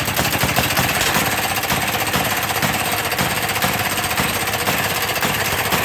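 Maytag washing machine's small two-stroke gasoline engine running steadily with a fast, even popping clatter, on a cold start after a year of sitting.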